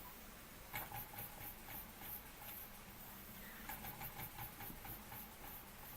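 Faint, irregular ticking and light hissing from the electrically heated boiler of a Weeden 420 model steam engine as it comes up to steam pressure, over a low steady hum.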